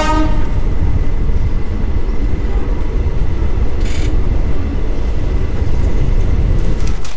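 Indian express passenger train running along the track: a steady loud rumble of the coaches' wheels and running gear, with a brief hiss about four seconds in.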